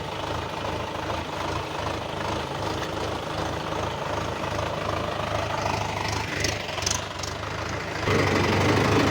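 Tractor diesel engine running steadily with an even, pulsing beat. It grows louder and heavier near the end.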